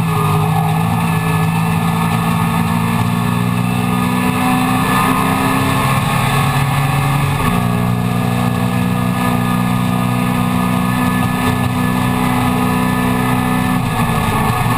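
Classic Mini race car's A-series four-cylinder engine, heard from inside the cabin under hard acceleration, its pitch climbing slowly. About halfway through the pitch drops suddenly at an upshift and starts climbing again, and it falls once more near the end.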